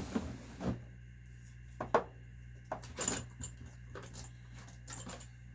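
Light metallic clinks and knocks, a series of separate hits about a second apart, from small nitro-engine parts and tools being handled and set down during disassembly. A low steady hum runs underneath.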